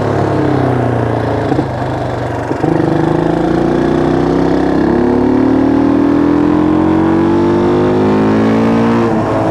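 1974 Honda XL175's single-cylinder four-stroke engine under way: the revs fall over the first second or so, pick up again about two and a half seconds in and climb slowly and steadily, then drop just before the end.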